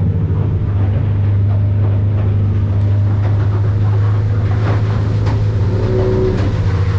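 Yamaha F300 V6 four-stroke outboard running steadily under way, a constant low drone with hull, water and wind noise over it.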